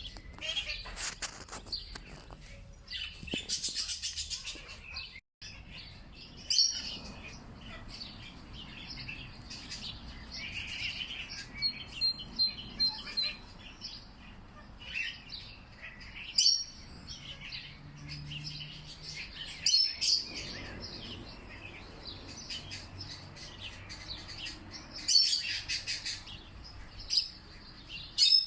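Wild birds chirping and singing, with many short calls and trills from several birds overlapping. The sound cuts out completely for a moment about five seconds in.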